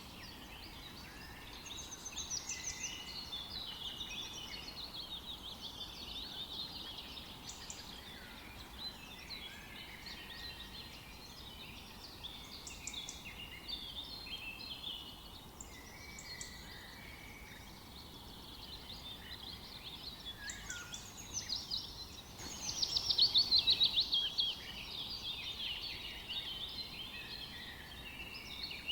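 Several small songbirds chirping and singing over one another, with a faint steady background hiss. About three quarters of the way through, one bird gives a loud, fast trill.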